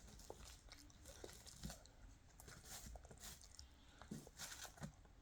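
Near silence with faint, scattered soft clicks and crunches: a toddler chewing a bite of gimbap and handling the dried seaweed and rice.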